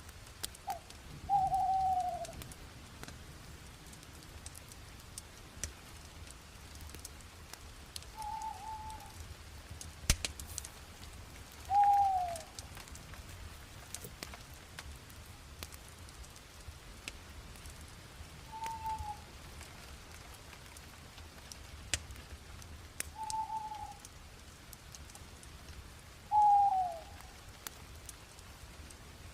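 Wood fire crackling with scattered sharp pops. A short call, falling in pitch, repeats about six times and is louder than the fire.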